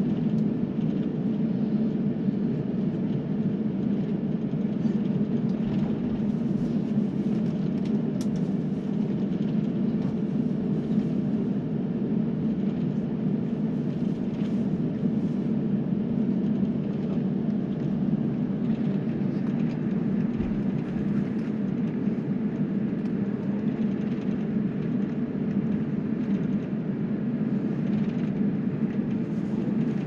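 Steady drone of an airliner cabin heard from a window seat: jet engines and airflow running at an even pitch, with no change in level.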